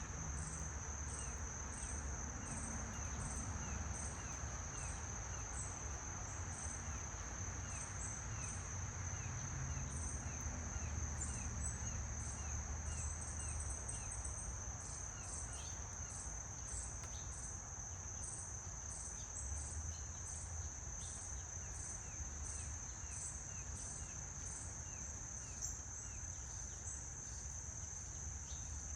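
Insects trilling in a continuous high-pitched drone, with short repeated chirps about twice a second over it, above a low steady rumble.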